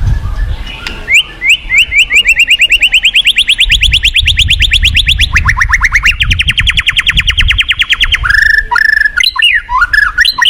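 White-rumped shama (murai batu) singing a long, fast trill of repeated whistled notes that climbs in pitch, drops about halfway through and climbs again. Near the end it breaks into varied whistles, over the low rush of a fast-flowing river.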